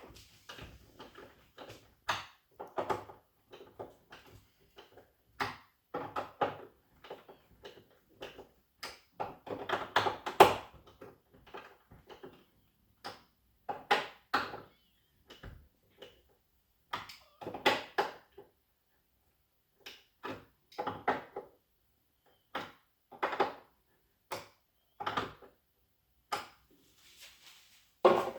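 Irregular knocks, taps and rustles from handling a TV's packaging and parts, coming in short clusters with quiet gaps between them.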